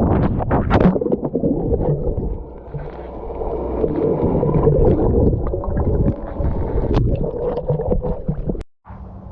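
Water churning and gurgling close to the microphone, muffled and rumbling, with some wind buffeting; it cuts off suddenly near the end.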